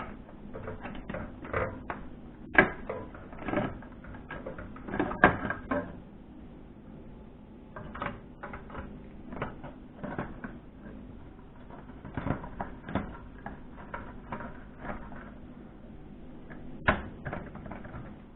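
Irregular clicks, knocks and rattles of fluorescent tubes being handled and swapped in their fixture sockets, with a few sharper clacks, the loudest about two and a half, five and seventeen seconds in.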